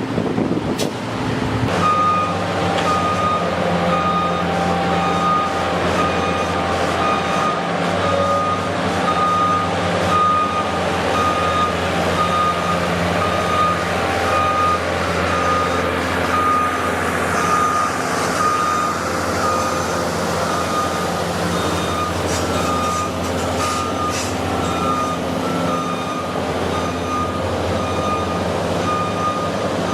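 A heavy vehicle's backup alarm beeping about once a second while reversing, over the steady running of its diesel engine.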